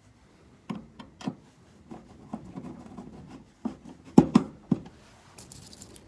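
A series of light knocks and clicks, as of things being handled and set down, loudest in a cluster a little past the middle, followed by a brief hiss near the end.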